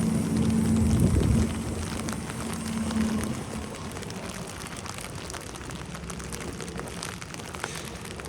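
A vehicle passing with a steady engine hum that is loudest in the first second or so and fades out after about three seconds, over a steady patter of falling wet snow with many small ticks of drops.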